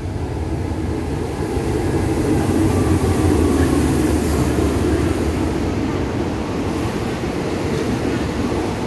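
Diesel locomotive hauling a passenger train into the station: a heavy engine rumble and wheels running on the rails. It is loudest as the locomotive passes about three to four seconds in, then eases as the carriages roll by.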